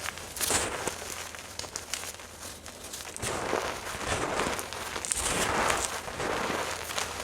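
Gym chalk being crushed and crumbled, a crunchy crackling of many small snaps that swells in several bursts.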